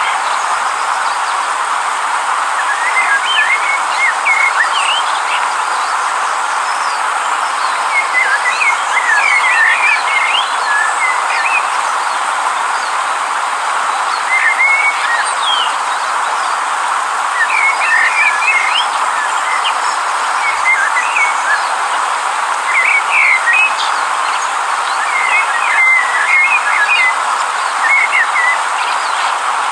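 Steady rushing of a river, with birds chirping over it in clusters of short calls every few seconds.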